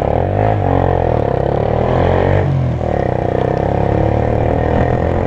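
Motorcycle engine running under way, loud and steady, with a brief drop in pitch and level about two and a half seconds in before it picks up again.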